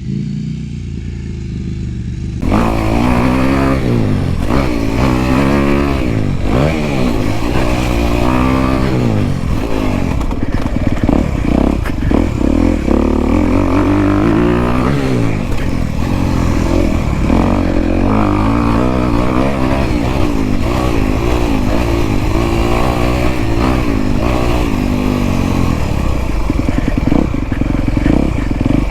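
Dirt bike engine being ridden hard, its pitch rising and falling over and over as the throttle is opened and closed and the gears change. It is quieter at first and becomes loud and close suddenly about two and a half seconds in.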